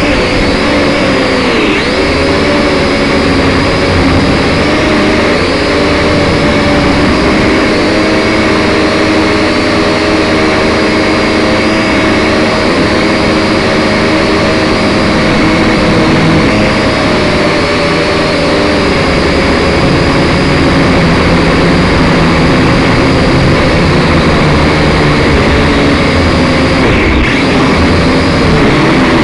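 Syma X5SC quadcopter's four small electric motors and propellers whining close to the microphone, several pitches wavering up and down together as the throttle and motor speeds change, with wind rumbling on the microphone.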